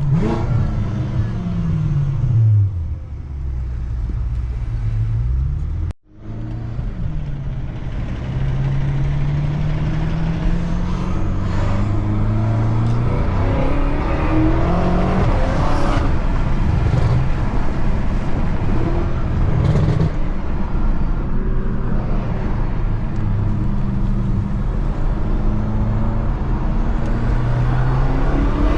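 BMW F10 M5's twin-turbo 4.4-litre V8, breathing through a new X-pipe exhaust, pulling hard under acceleration. The engine's pitch climbs through each gear and drops back at each upshift, several times over. The sound cuts out for an instant about six seconds in.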